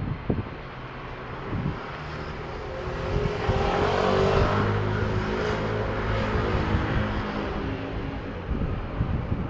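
A motor vehicle passing on a street, its engine and tyre noise swelling to a peak a few seconds in and then fading. Wind buffets the microphone at the start and again near the end.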